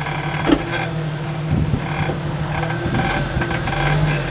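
Jeep Cherokee XJ engine running steadily at low crawling revs as the Jeep eases over rock, with a sharp knock about half a second in and a few softer knocks later.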